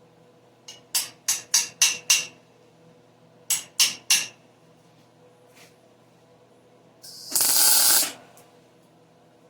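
Sharp ringing taps of metal on steel, five in quick succession and then three more, followed about seven seconds in by a one-second burst of hissing crackle from the MIG welder laying a tack weld.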